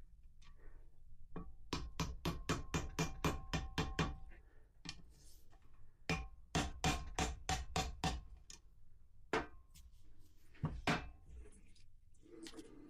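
Hammer tapping a bearing into its housing: two runs of quick metal taps, about four a second, with a faint ring, then a few single taps.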